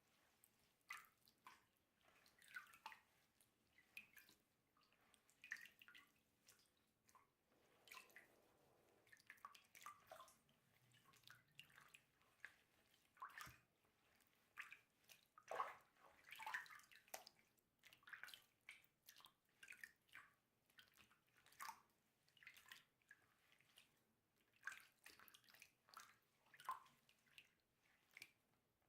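A doll's synthetic hair being washed by hand with water and shampoo: short, irregular wet sounds and drips, one or two a second, quiet.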